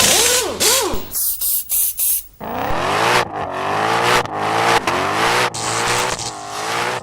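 A car engine revving up and down in short bursts, with abrupt cuts between them.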